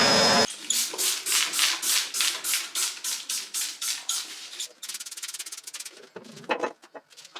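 A loud, steady machine noise cuts off abruptly about half a second in. Rhythmic rubbing strokes follow, about three a second, like a surface being scrubbed; from about five seconds in they turn faster and lighter.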